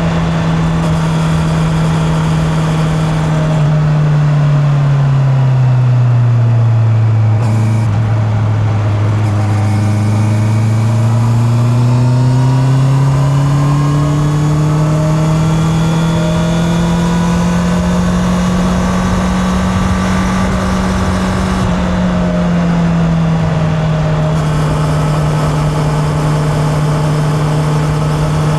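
Honda CB650R's inline-four engine running on the road, heard from the rider's pocket. The revs drop about four seconds in and stay low for a few seconds, then climb steadily under acceleration. They ease back a little about three-quarters of the way through and then hold at a steady cruise.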